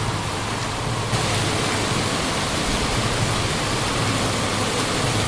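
Heavy rain and rushing water: a steady, dense hiss that grows brighter about a second in.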